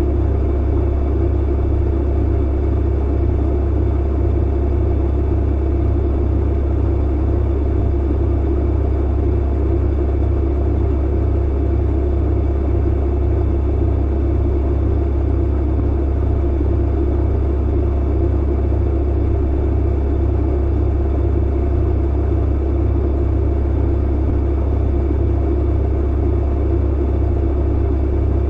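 Clothes dryer running with an even, unbroken low hum and rumble.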